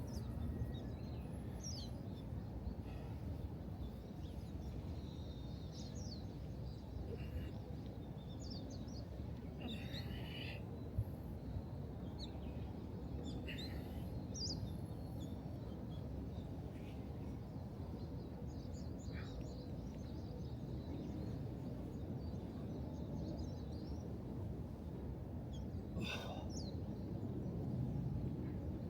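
Outdoor ambience: a steady low rumble of wind or environmental noise, with scattered short bird chirps and calls over it.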